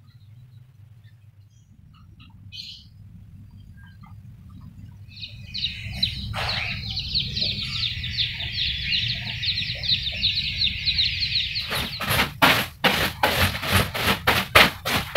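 Small birds chirping in a dense, busy chorus through the middle, over a steady low hum. Near the end a quick run of short noisy strokes, about three a second, takes over.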